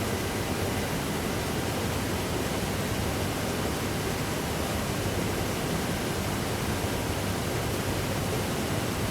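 Steady, even rushing noise spread across the whole range, with no distinct events and no change in level.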